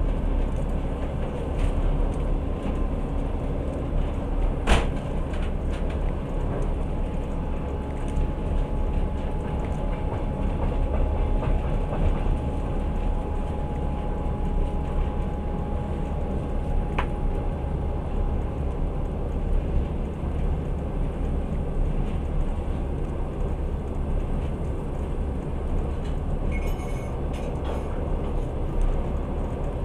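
Passenger train running at speed, heard from inside the carriage: a steady low rumble of wheels on the rails. A sharp click or knock comes about five seconds in, and a faint steady whine runs through the middle for about ten seconds.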